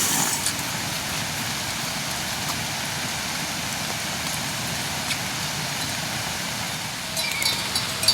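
Steady monsoon rain, an even hiss, with a few light taps near the end.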